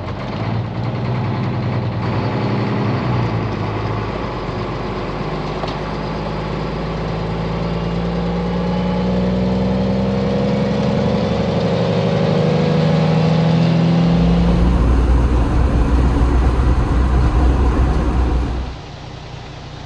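Loaded grain truck's engine pulling away and accelerating, its pitch climbing over several seconds. About fourteen seconds in, a heavy low rumble with hiss takes over for about five seconds, then drops away.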